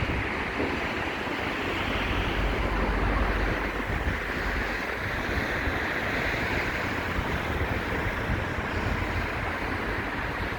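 Steady rush of sea surf that swells and eases slowly, with wind gusting on the microphone.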